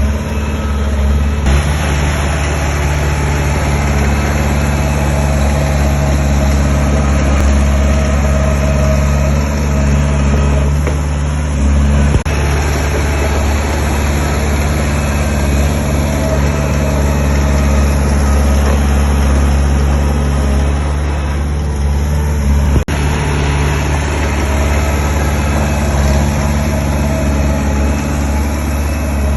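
Heavy diesel engine of earthmoving machinery running steadily with a deep, even drone, briefly cut off once about three-quarters of the way through.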